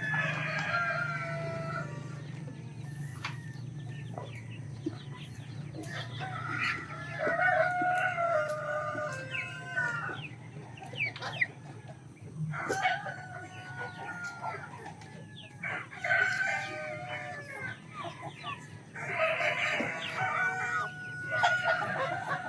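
Roosters crowing about five times, each crow a long call lasting a second or two, with chickens clucking in between.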